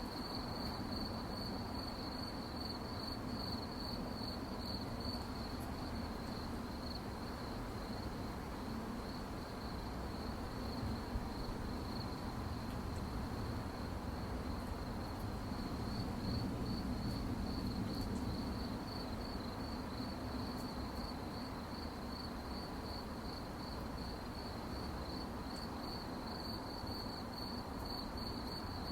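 Crickets chirping in a steady, evenly pulsed high trill over a low, steady background hum.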